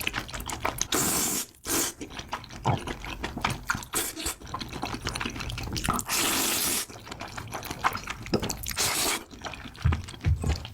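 Close-miked eating of Buldak ramen noodles: several wet slurps, the longest about six seconds in, between squelchy chewing and lip smacks.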